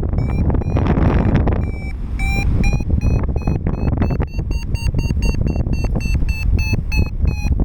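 Paragliding variometer beeping its climb tone: short repeated beeps that rise a little in pitch and quicken to about three a second, signalling the glider is climbing in lift. Wind buffets the microphone underneath.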